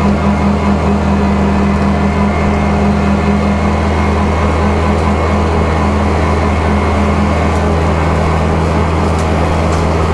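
Kubota tractor's diesel engine running steadily at a constant throttle.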